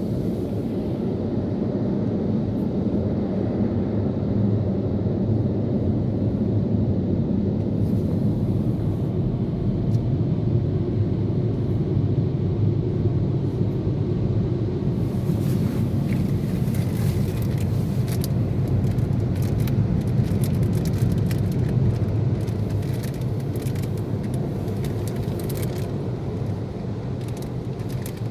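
Istobal M'Wash 3 Pro car wash machinery running with a steady low rumble. From about halfway through, a rapid, irregular patter of ticks and taps joins in.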